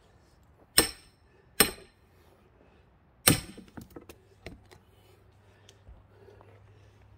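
Steel splitting tools striking a thick pine log: three sharp, ringing metallic clanks, the third followed by a brief scatter of lighter knocks.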